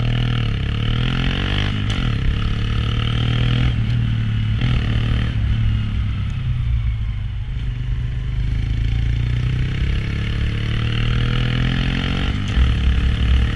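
Honda Grom's small single-cylinder motorcycle engine running under way, its note falling and rising with the throttle, with a low rumble of wind noise underneath.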